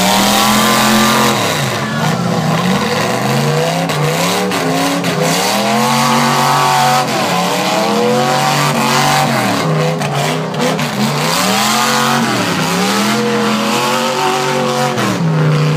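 Loud V8 demolition derby car engines revving up and falling back again and again, several at once, as the cars accelerate and back off.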